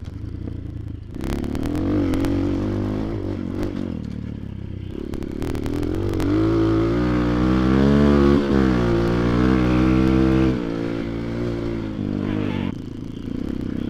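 Motoland XR250 enduro motorcycle's single-cylinder engine running under way, the throttle opened so the revs climb about six seconds in, held high, then cut back sharply near the ten-second mark. A few brief rattling knocks from the bike come through early on and around the middle.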